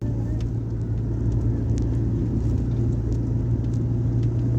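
Steady low hum of a vehicle engine with rumbling road noise, unchanging throughout, with a few faint clicks.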